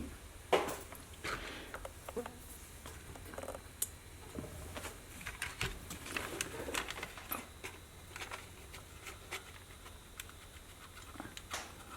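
Faint handling noise from work on a cassette Walkman's mechanism: scattered small clicks, taps and scrapes, with a low hum underneath.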